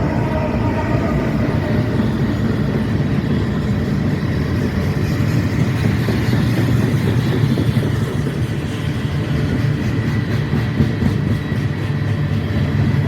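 A train passing close by: a loud, steady rumble of wheels on rails and running gear.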